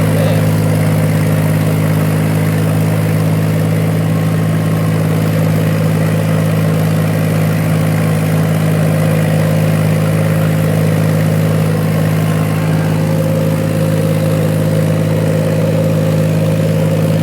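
Mahindra 275 DI tractor's three-cylinder diesel engine running at a steady, even speed, with no revving.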